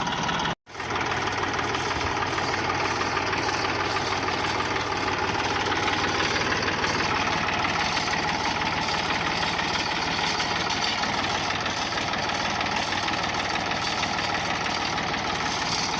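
Tractor engine running steadily at a constant speed, with one brief cut to silence less than a second in.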